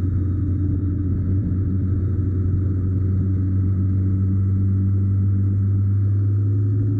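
Honda NC750X motorcycle's parallel-twin engine running steadily at cruising speed, a constant low drone with no change in pitch, over wind and road noise at the fork-mounted camera.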